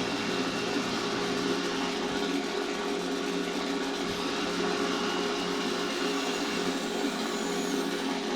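The model Spitfire's take-off sound effect: a recorded propeller-aircraft engine played through the model's small built-in speaker, running steadily with a thin, bass-less tone.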